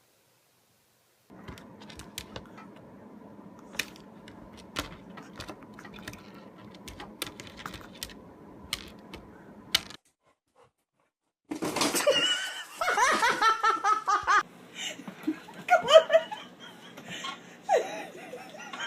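A steady low hum with scattered sharp clicks, which stops suddenly; after a short gap, a person laughing loudly, then more laughter.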